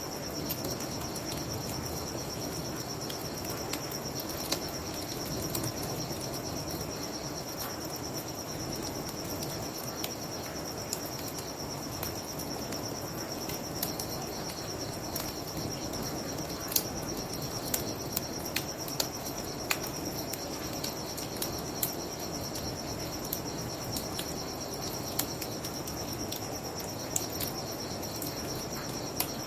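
Crickets chirping in a steady high trill, with a wood fire crackling and popping in scattered sharp snaps over a low steady rush.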